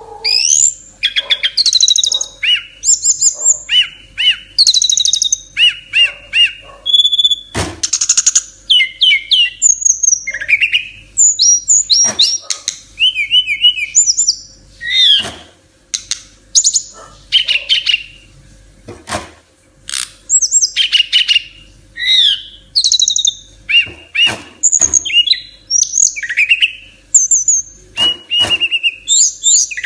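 A caged SRDC songbird singing in full voice: rapid, varied phrases of whistles, chirps and trills, one after another with short pauses, plus a few sharp clicks.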